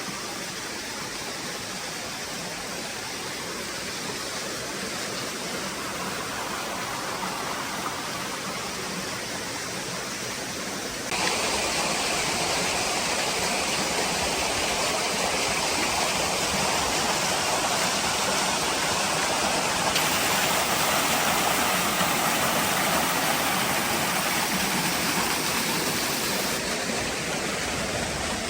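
Waterfall rushing in a steady roar of falling water; about eleven seconds in it turns abruptly louder and brighter and stays so.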